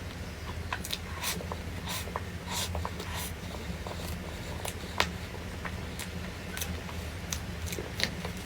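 Eating sounds: scattered crisp clicks and crackles of chewing and mouth noises, one sharper click about five seconds in, over a steady low hum.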